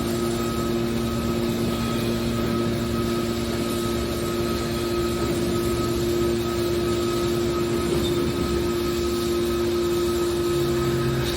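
Hydraulic aluminium can baler running, its electric motor and hydraulic pump giving off a steady hum with a few fixed tones.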